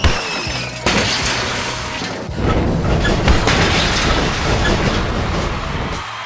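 Booming crash and explosion sound effects: a sudden hit at the start and another about a second in, then a noisy rumble with a few smaller hits that fades away.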